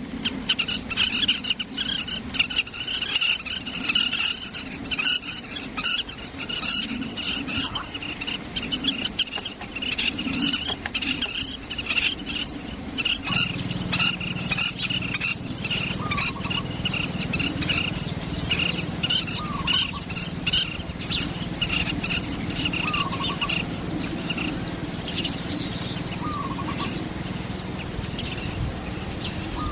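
Many small birds chirping and twittering in quick, overlapping calls. In the second half, a short falling call repeats about every three and a half seconds, and a low steady hum comes in about halfway through.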